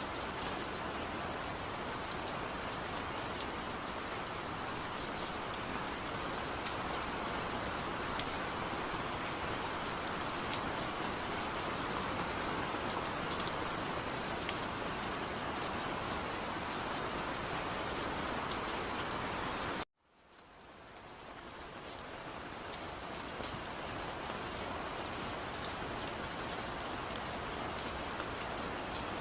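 Steady rain falling, with scattered individual drops ticking through the hiss. About twenty seconds in it cuts out suddenly and fades back up over a few seconds.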